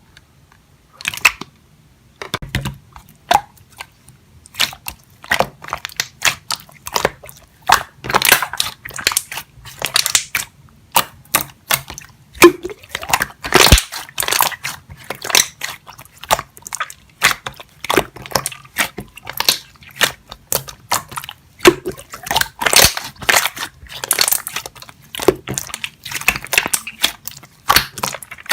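Clear slime being squished and pressed by hand, giving irregular sharp crackling pops and clicks of trapped air, several a second.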